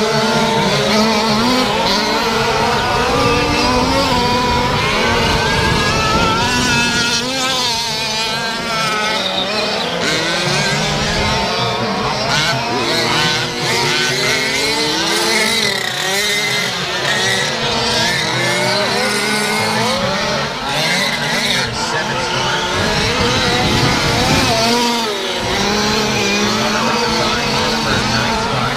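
Several 1/5-scale RC race trucks' small two-stroke gasoline engines revving up and down at the same time, their overlapping pitches rising and falling as the trucks race around the track.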